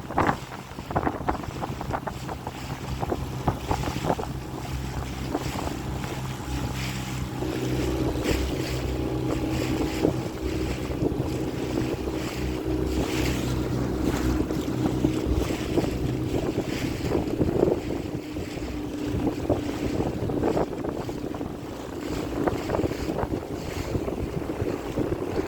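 Small motorboat's engine running steadily under way, with wind buffeting the microphone and water noise around the hull. The engine's hum is strongest through the middle and grows fainter in the last third.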